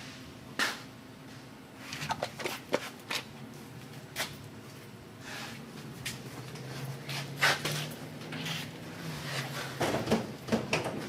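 Hand tools and metal parts clinking and knocking as the men work on the car's front end: a dozen or so sharp, irregular knocks and clicks, with a cluster near the end.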